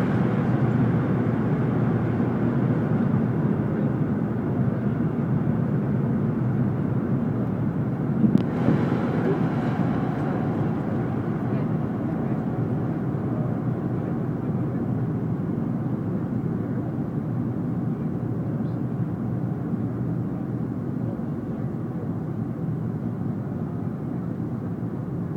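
Steady cabin noise inside a Fokker 100 airliner: a constant rush of airflow over the fuselage with the drone of its rear-mounted Rolls-Royce Tay turbofans, easing slightly over time. A brief sharp clunk sounds about eight seconds in.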